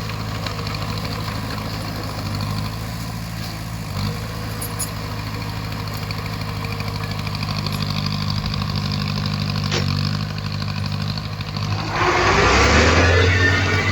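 Bulldozer's diesel engine running steadily. About twelve seconds in the engine note drops lower and the sound gets louder, with a burst of harsh, grinding noise over it.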